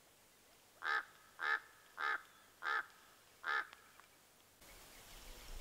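A bird calling five times in an even series, about one call every two-thirds of a second.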